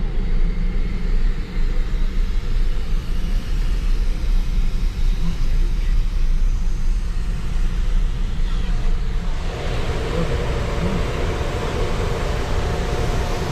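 The 2016 Jeep Wrangler Rubicon's engine rumbles steadily, heard from inside the cabin. About nine and a half seconds in, a steady hiss comes in and stays over the rumble.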